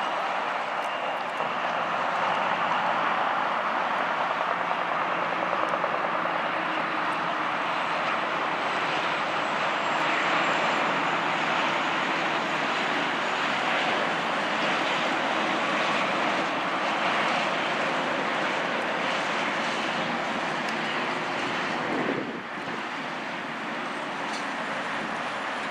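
Road traffic passing, a steady roar of tyres and engines that drops off suddenly about 22 seconds in.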